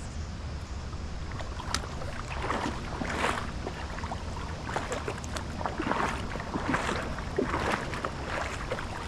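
Creek water sloshing and splashing in irregular bursts, as from legs wading through the current, over a steady low rumble.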